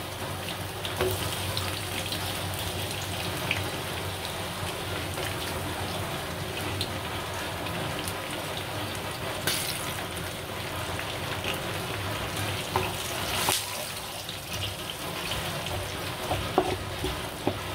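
Sliced onions and chillies sizzling steadily in melted ghee in a non-stick pan, with a wooden spatula stirring and scraping through them and giving a few louder clicks now and then.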